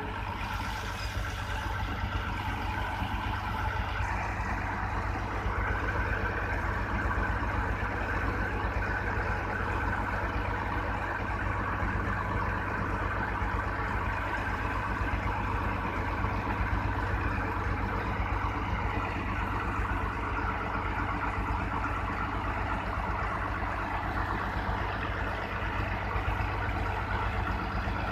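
A bulldozer's diesel engine running steadily, growing a little louder about five seconds in.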